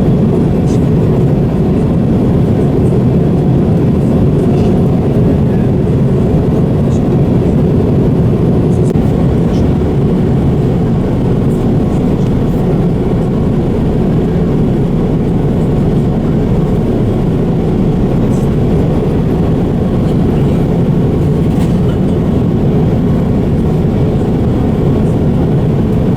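Steady low rumble of a jet airliner heard from inside the passenger cabin: engine and airflow noise.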